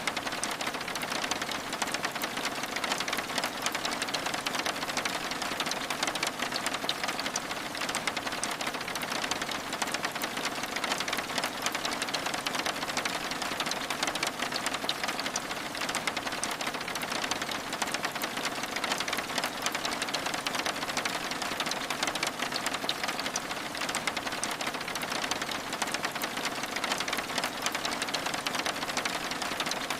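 Steady rain falling, a dense, even patter of fine drop ticks that never lets up.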